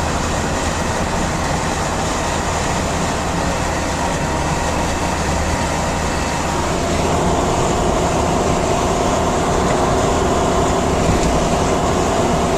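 Steady road and engine noise heard inside a moving car on a highway. About seven seconds in it gets a little louder and takes on a steady hum.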